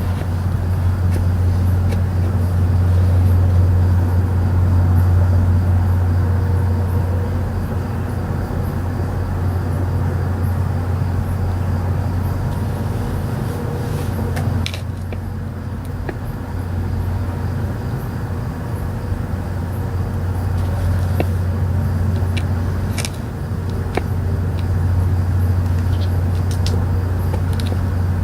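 A loud, continuous low droning rumble that swells and eases every few seconds, with a few faint clicks over it. It is the unexplained noise the recorder calls pretty loud and takes for one of the reported 'strange sounds'.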